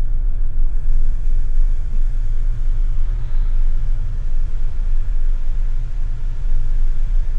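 Steady low rumble of a moving car, road and wind noise, with no sudden sounds.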